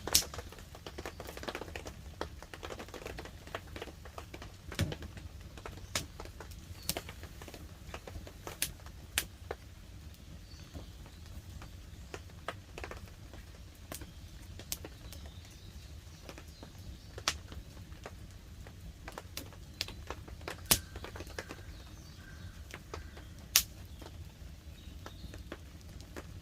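Wood campfire crackling, with irregular sharp snaps and a few louder pops, over a faint hiss of light rain.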